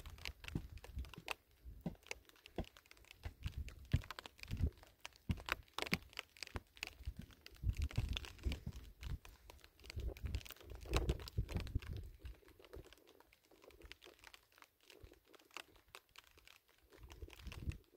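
Irregular dry crackling and crunching, many small snaps in quick succession, as brush on the shelter roof is handled, with low uneven rumbles underneath; the crackling thins out in the last few seconds.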